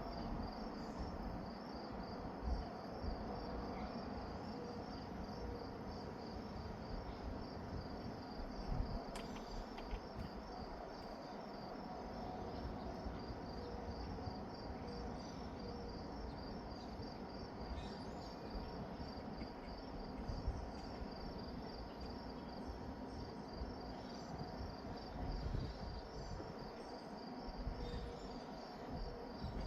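Crickets chirping steadily in an even, pulsing high trill, over a low rumble.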